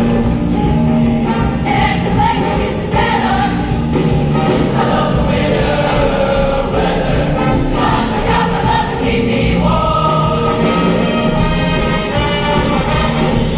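A choir singing over continuous instrumental accompaniment.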